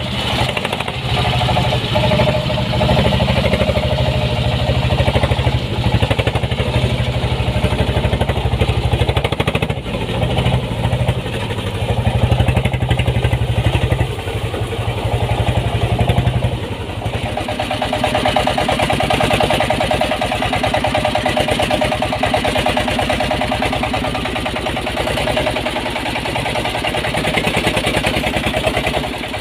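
Small diesel engine of a homemade mini dump truck (ledok) running with a rapid chugging beat. About seventeen seconds in, the engine note changes and gets a little quieter.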